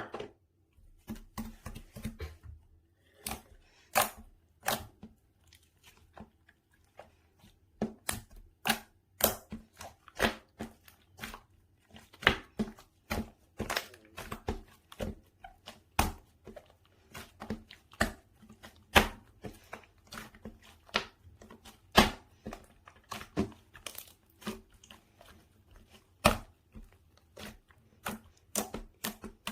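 Slime being squished and stretched by hand: an irregular run of sticky pops and crackles, a few of them sharp and loud.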